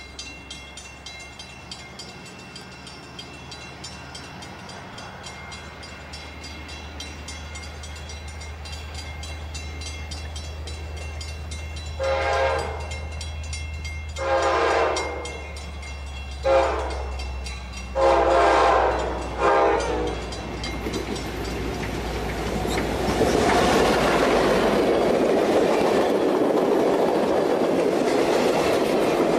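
An Amtrak passenger train led by an EMD F40PH diesel locomotive approaches with a low engine drone that grows louder. About twelve seconds in it sounds its horn in the grade-crossing pattern: long, long, short, long. The bilevel passenger cars then roll past close by with a loud, steady rumble and wheel clatter on the rails.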